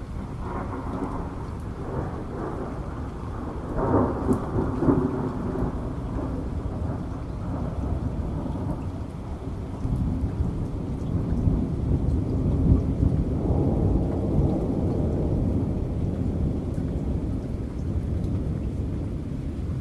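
Steady heavy rain with rolling thunder. The deep rumble swells about four seconds in and again about two-thirds of the way through.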